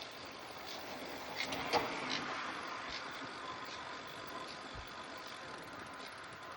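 A motor vehicle passing, swelling about one and a half to three seconds in, over steady road and wind noise, with a few sharp clicks as it goes by.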